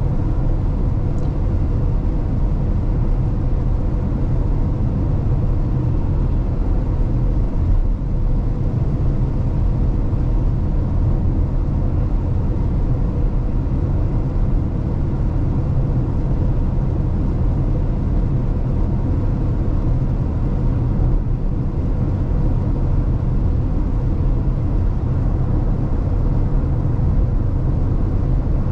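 Steady road and tyre noise inside the cabin of a 2022 Tesla Model X at highway speed on wet roads: a low rumble with a faint steady hum over it.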